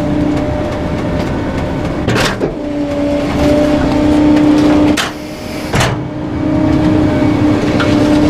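Garbage truck's hydraulic packer crushing bulky waste: a steady pump whine over engine rumble, with sharp cracks of breaking material about two, five and six seconds in.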